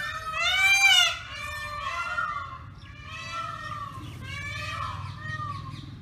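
Several birds calling over one another, a run of pitched calls that rise and fall, with one louder call arching up and down about a second in.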